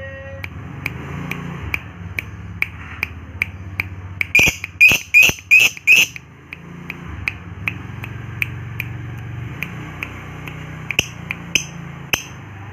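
Lovebird chirping: a steady run of short, sharp chirps about two and a half a second, with a burst of six louder chirps about four seconds in and a few more loud ones near the end.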